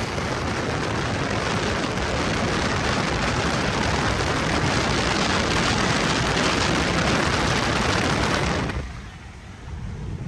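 Steady rushing noise of a vehicle moving at speed, with no clear engine note, dropping off sharply near the end.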